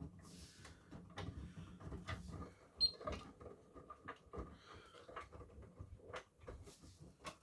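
Miele washing machine: irregular clicks and knocks over a low rumble, with one short high electronic beep from its control panel about three seconds in.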